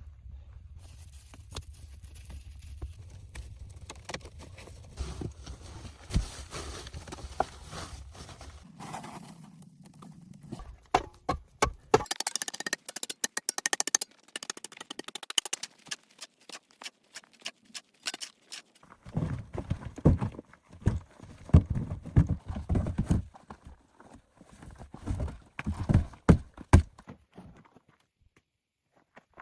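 An irregular series of knocks and clicks, then heavier low thuds in the second half.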